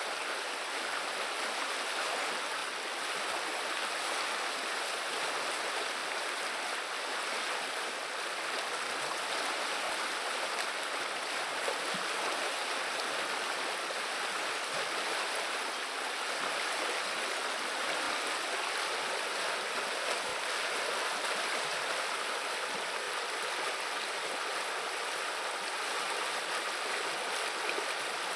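River water running and babbling in a steady, even rush.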